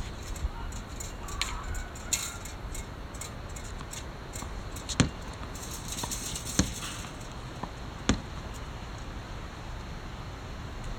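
Three sharp knocks about a second and a half apart, over a steady low rumble with faint scattered ticks.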